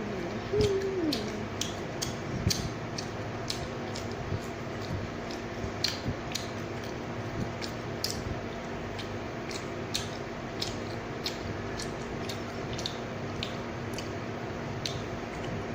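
Irregular sharp clicks and taps, one to three a second, over a steady low hum, with a brief wavering pitched sound about half a second in.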